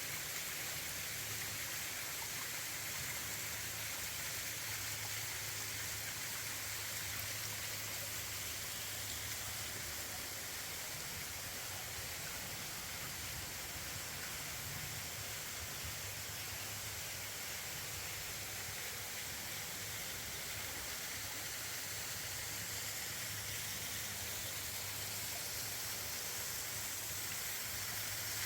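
Steady rushing of water from a small waterfall and stream cascading over rock, with no breaks.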